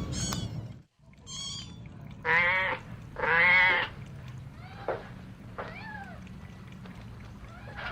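Cats meowing: a thin high kitten call, then two long, loud meows, then a few shorter, softer meows that fall in pitch.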